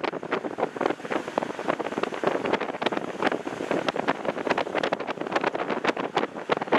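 Wind buffeting the microphone, with a dense, irregular run of crackles and pops.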